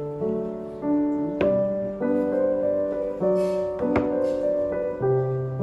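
Background piano music, a gentle melody of sustained notes changing about every half second, with a few faint clicks.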